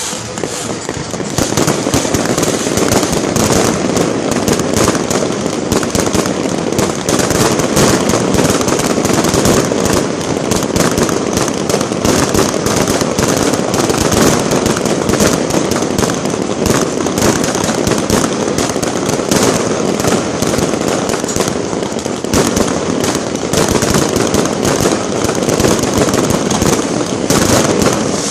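Fireworks display: a dense, unbroken barrage of bangs and crackling shells going off in rapid succession.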